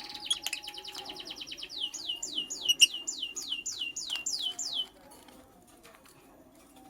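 Lovebird chirping: a fast run of short high chirps, then a slower series of sharp downward-sweeping chirps at about four a second, stopping about five seconds in.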